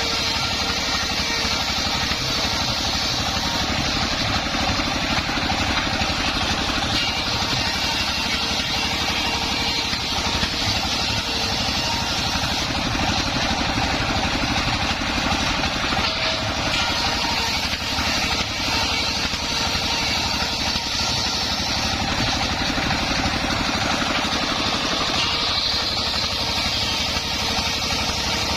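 Engine of a homemade mobile circular-saw rig running steadily at an even level.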